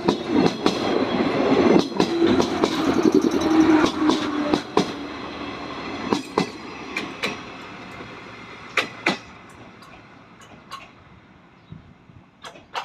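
105-series electric train running past and pulling away, its wheels clicking over rail joints in pairs. The rumble and clicks fade steadily as it recedes.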